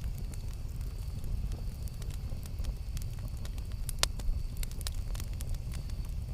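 Campfire burning: a steady low rumble with scattered crackles and pops throughout, the sharpest pop about four seconds in.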